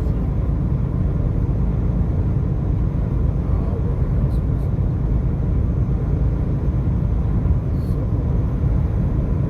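Steady low rumble of a vehicle on the move: road and engine noise, unbroken throughout.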